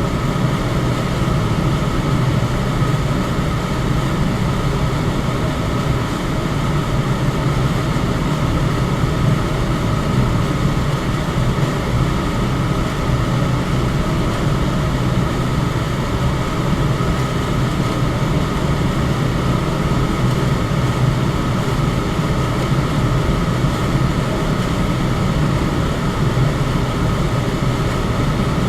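Electric fan running steadily: an even rush of moving air with a steady low hum underneath, unchanging throughout.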